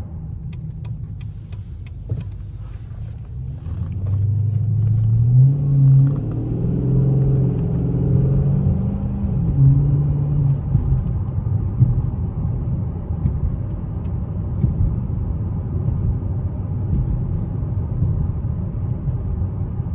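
Chrysler 300C SRT8's HEMI V8 exhaust rumbling under a soft acceleration pull: about four seconds in the engine note grows louder and climbs in steps for several seconds, then settles into a steady cruising drone over road noise.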